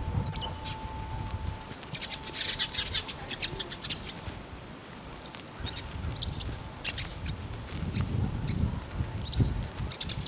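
Small birds chirping in short scattered bursts, with wind rumbling on the microphone.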